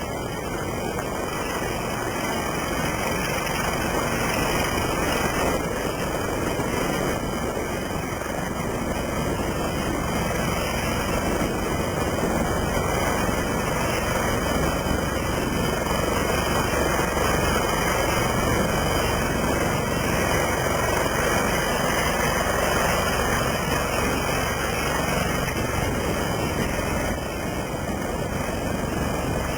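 Westland Lynx helicopter running, its rotor and turbine engines making a steady, dense noise that grows a little louder over the first few seconds.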